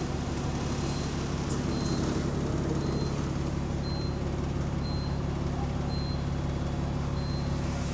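Bus engine running with a steady low drone, on a bus with an exhaust leak. A short high beep repeats about once a second.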